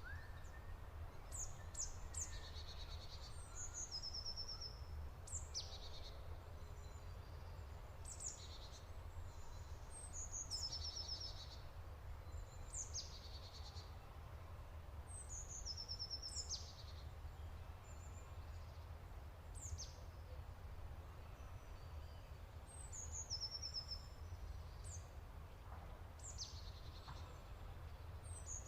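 A bird repeating a short high-pitched phrase every two to three seconds: a quick falling sweep followed by a few stepped notes, over a faint low rumble.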